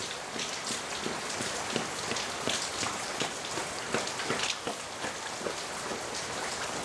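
Rain falling outdoors: a steady hiss with many sharp, irregular drop hits.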